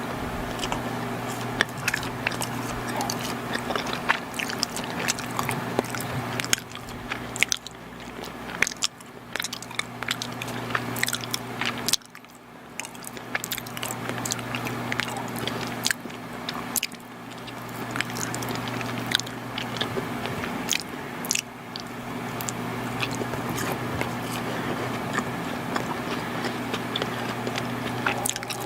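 Close-miked chewing and biting of soft chocolate baked goods, with many small wet mouth clicks and a few short pauses. A steady low hum runs underneath.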